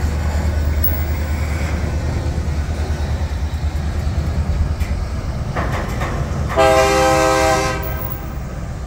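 Diesel locomotives of a Union Pacific double-stack intermodal train rumbling steadily as the train starts to creep forward. A locomotive horn gives a short faint blast about five and a half seconds in, then a loud blast lasting about a second.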